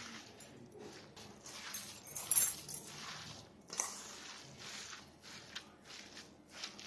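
Chhena and sugar being mixed by hand in a bowl: irregular bursts of scraping and rustling, the loudest a little over two seconds in.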